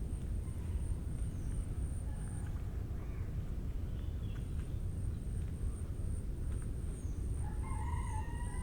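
Forest ambience over a steady low rumble: a constant high, faintly pulsing insect trill, scattered short bird chirps, and a louder bird call near the end.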